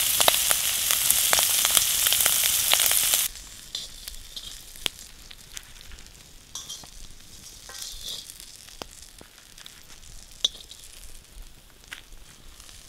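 Shrimp frying in butter in a wok: a loud sizzle that cuts off abruptly about three seconds in. After that there is only a much quieter background broken by scattered light clicks and taps.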